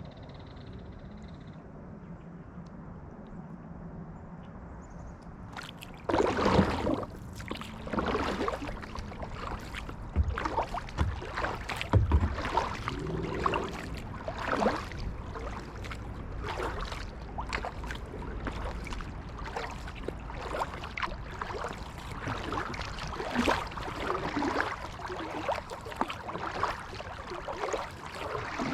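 Kayak paddle strokes: the blades dip and splash into the water in a steady rhythm about a second apart, starting about six seconds in after a quieter stretch of soft water hiss.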